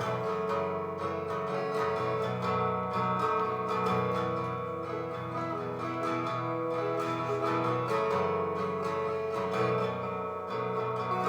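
Acoustic guitar strumming chords at a steady, even rhythm: the instrumental introduction to a folk song, before the singing starts.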